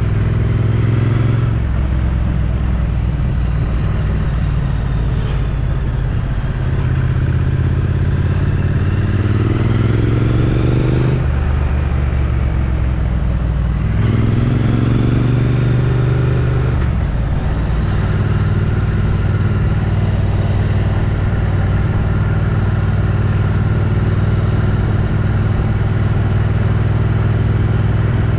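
Triumph Street Twin's 900 cc parallel-twin engine through its stock exhaust, under way. It pulls up in revs twice, each time dropping back sharply as a gear change comes in, then settles into a steady cruise.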